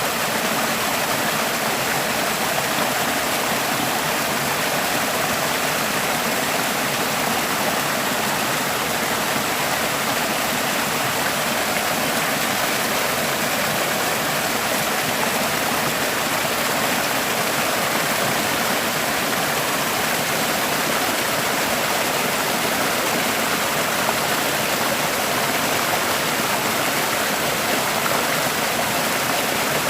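Forest stream flowing and splashing over rocks: a steady, even rush of water.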